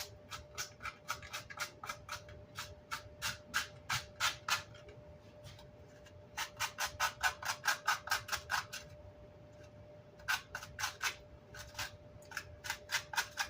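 Grill cloth being scrubbed with a brush in quick back-and-forth strokes, about three a second, in several runs with short pauses between them. A faint steady hum runs underneath.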